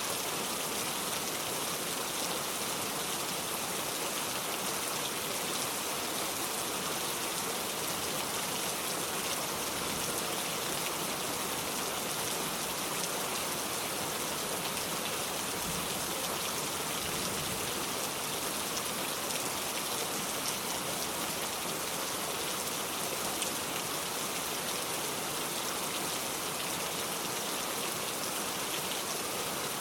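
Heavy rain drumming steadily on a metal roof, a dense, even hiss of drops.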